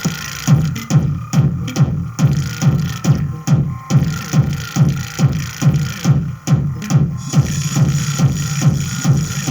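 Electronic music with a steady drum-machine beat of low thumps, a little over two a second; the highs drop away about half a second in and come back near the end.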